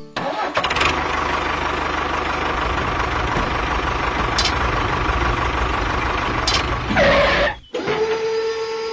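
A motor running steadily with a low rumble, briefly louder about seven seconds in. It cuts off abruptly and gives way to a steady hum.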